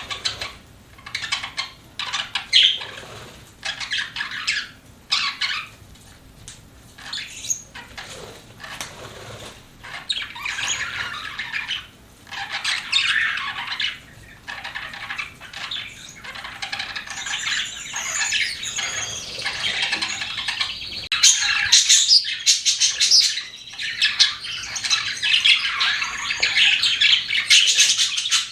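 Pet budgerigars chattering, with a rapid jumble of chirps and squawks that gets busier and louder in the last third.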